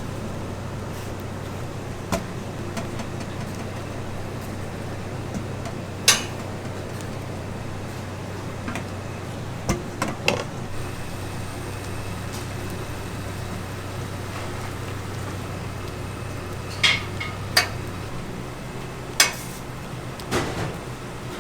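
Kitchen work: scattered clinks and knocks of metal utensils and pans, about eight sharp hits, over a steady low hum that drops away near the end.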